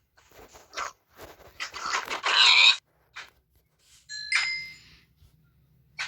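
Handling noises: a series of clicks and scraping or rustling, loudest about two and a half seconds in, then a single struck object ringing briefly about four seconds in.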